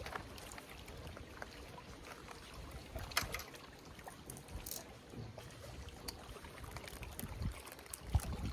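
Water lapping and trickling against a kayak hull, with a low rumble and a few light knocks and clicks, the clearest about three seconds in.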